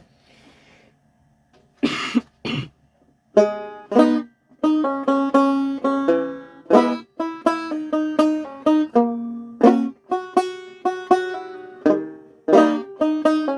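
A banjo being picked. After a couple of short noisy sounds about two seconds in, it starts about three seconds in with a run of bright plucked notes, each ringing out and fading.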